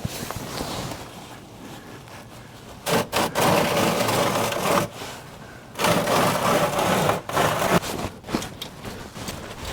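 A ratchet wrench clicking as it tightens an oil drain plug back into the tractor, in two louder spells of quick ratcheting about three and six seconds in.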